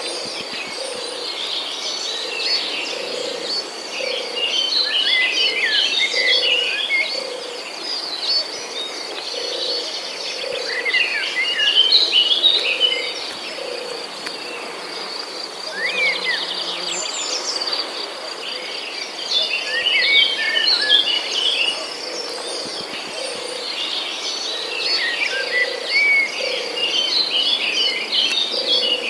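Nature ambience of birds chirping in bursts over a steady high insect trill, with a soft low call repeating about every two-thirds of a second underneath.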